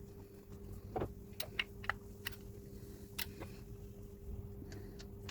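Light clicks and ticks of small metal parts, a pulley, washer and bolt, being handled and fitted, about six sharp taps over the first three seconds, over a faint steady hum.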